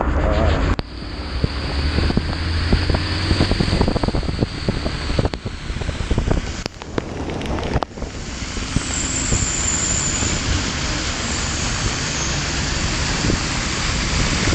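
Wind rushing over the microphone of a motorcycle riding through heavy rain, with the engine running underneath and the hiss of rain and water off the wet road. The rush dips briefly about a second in and twice more around the middle.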